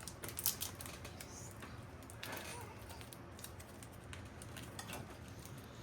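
Packaging of a small portion of Edam cheese being opened: scattered sharp clicks and short crinkling sounds.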